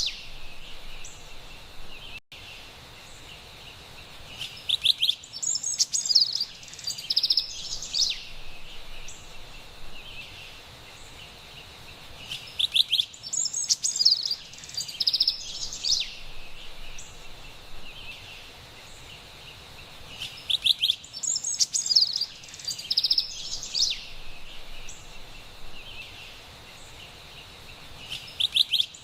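Carolina wren singing: bouts of rapid, repeated bright notes lasting about three seconds each, coming back about every eight seconds. A steady forest background hiss lies underneath, with a brief dropout about two seconds in.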